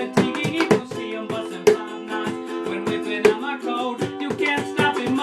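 Ukulele strummed in a steady, quick rhythm, playing chords of the song's accompaniment.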